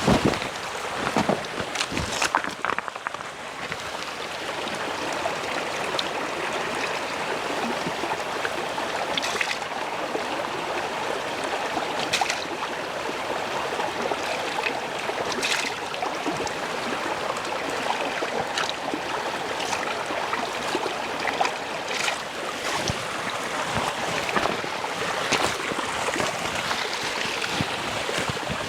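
Steady rushing outdoor noise, with a few sharp knocks in the first two seconds and scattered clicks throughout.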